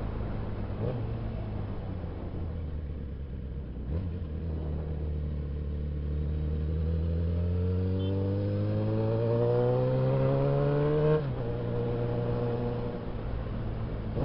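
Suzuki Bandit 650S motorcycle's inline-four engine running, then pulling with its pitch rising steadily for several seconds before it drops suddenly about eleven seconds in.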